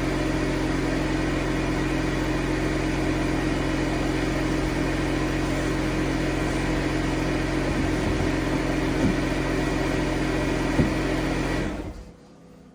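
A motor or small engine running steadily at one speed, then switched off near the end and quickly winding down.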